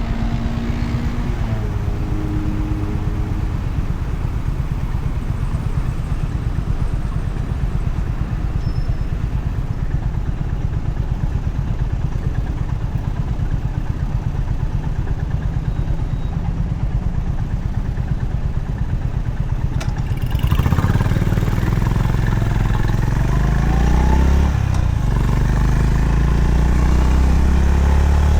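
Honda CB350RS air-cooled single-cylinder engine running with a steady low thump. About twenty seconds in it gets louder and rises in pitch as the bike accelerates.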